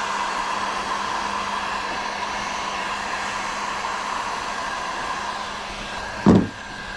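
Handheld electric heat gun blowing steadily, softening the milk-carton plastic and kayak hull for welding, with a faint whine over its rushing air. It eases off a little near the end, and a short thump comes about six seconds in.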